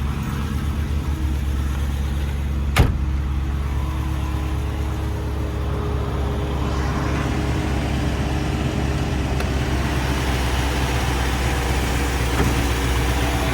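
The 4.5-litre V8 of a 1972 Mercedes-Benz 300SEL 4.5 idling steadily, with a single sharp knock about three seconds in. From about halfway a brighter hiss from the engine grows louder.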